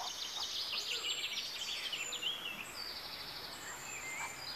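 Small songbirds singing: high rapid trills and short chirps.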